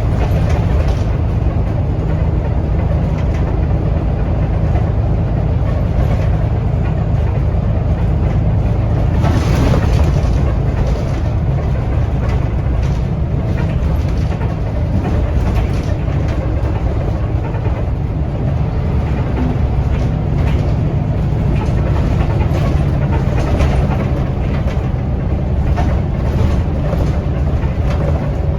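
Scania L94UB city bus on the move, heard from inside the cabin: a steady low engine and driveline rumble with road noise and body rattles, and a brief louder burst of noise about nine seconds in.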